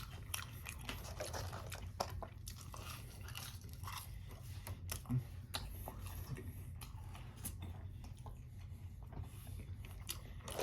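Close-up chewing and biting of french fries, with scattered small crunches and mouth clicks over a steady low hum.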